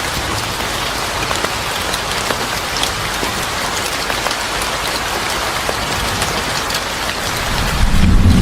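Steady rain falling on a surface, an even hiss scattered with sharp drop ticks. A low rumble builds near the end.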